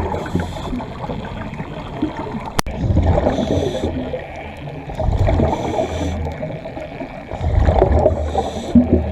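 Scuba regulator breathing underwater: a hissing inhale alternating with a bubbling exhale, cycling about every two and a half seconds. A single sharp click sounds about two and a half seconds in.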